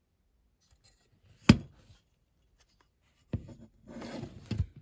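Handling noises on a work surface: a single sharp knock about a second and a half in, then lighter knocks with rubbing and scraping near the end, as a small object is picked up and set down.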